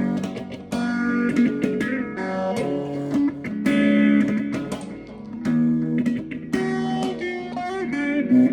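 Background music: a guitar playing a run of picked notes and chords.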